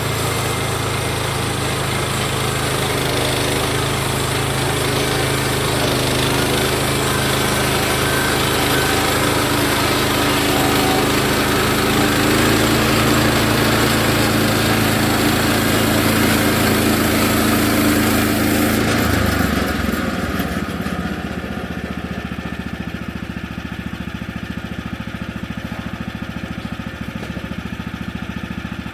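Woodland Mills HM130MAX sawmill's gas engine running steadily at high speed; about two-thirds of the way through it drops to a lower, quieter idle.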